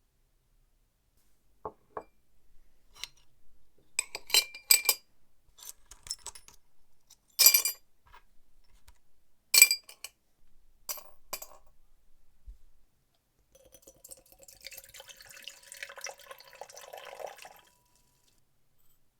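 A series of sharp metal-on-glass clinks, a few of them loud, as small parts are handled in or against a glass container. From about 14 to 18 seconds in comes a few seconds of liquid pouring or splashing.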